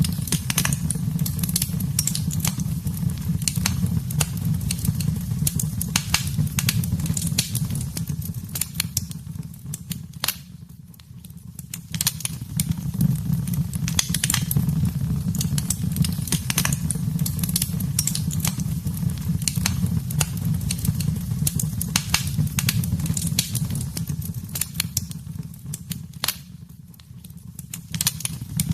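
Wood fire in a fireplace crackling, with frequent sharp pops and snaps over a steady low rumble of the flames. The rumble fades briefly twice, leaving mostly scattered crackles.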